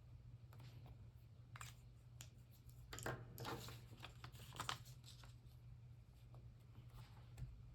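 Faint paper rustling and light scratching strokes of craft work on paper, a few short bursts of handling clustered a few seconds in, over a steady low hum.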